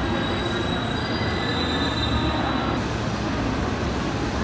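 Electric commuter train running along a station platform, a steady rumble and hiss with thin high-pitched wheel squeal that cuts off about three seconds in.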